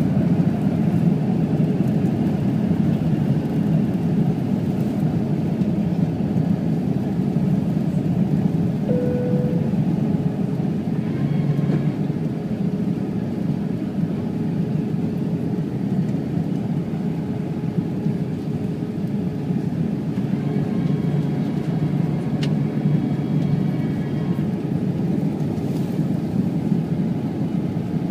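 Jet airliner in flight, its engines and airflow making a steady low rush with no change in level.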